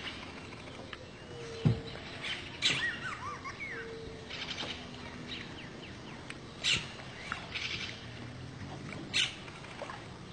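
Birds calling: short calls repeating every second or two, and a few quick falling chirps about three seconds in. A single sharp knock about two seconds in is the loudest sound.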